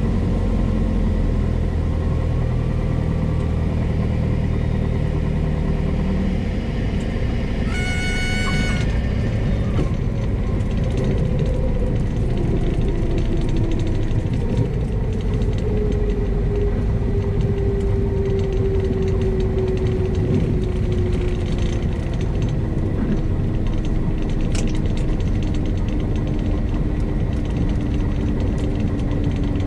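Cessna 172S engine and propeller running at low power, with the stall warning horn sounding briefly about eight seconds in, as it does in the landing flare just before touchdown. Afterwards a tone slowly falls in pitch under the steady drone.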